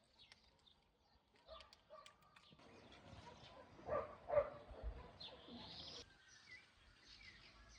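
Faint outdoor ambience with scattered short bird chirps and a brief, louder sound about four seconds in.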